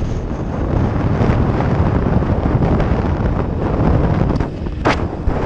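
Wind buffeting the microphone of a moving motorcycle, with the engine and road noise beneath it. A brief sharp sound cuts through about five seconds in.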